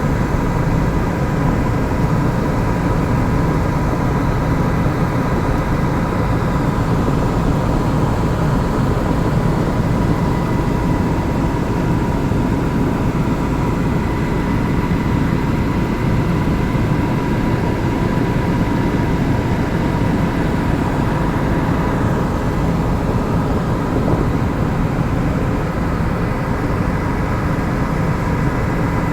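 Helicopter in flight: engine and rotor running steadily, with a constant high whine over a heavy low rumble.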